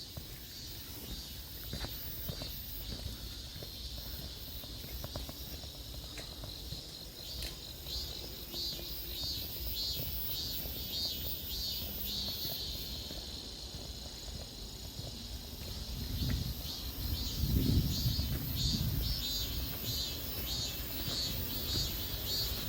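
Insects calling in a fast, high-pitched pulsing chorus over a steady low background rumble, which swells louder for a few seconds near the end.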